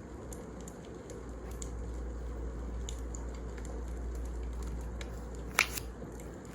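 Wood fire burning with a steady low rumble, scattered small crackles and one sharp loud pop about five and a half seconds in.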